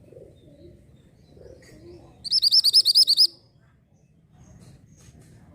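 Orange mantenan songbird singing: one loud, rapid trill of about ten up-swept notes, lasting about a second, starting about two seconds in. Faint low cooing sounds run underneath.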